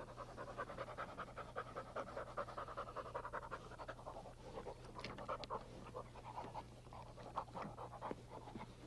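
English Springer Spaniel panting quickly in short, rapid breaths, with a faint steady hum beneath.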